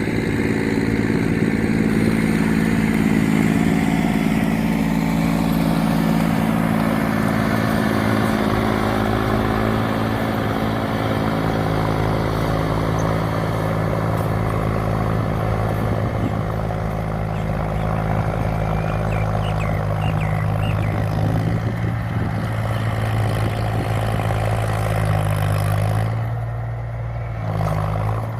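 Tractor engine running steadily under load while ploughing a rice paddy. About two seconds before the end the engine note shifts and the higher-pitched noise briefly drops away.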